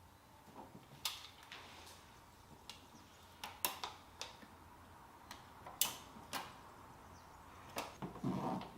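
Irregular light clicks and taps of small hard parts being handled, about a dozen spread out, with a louder rustling knock near the end.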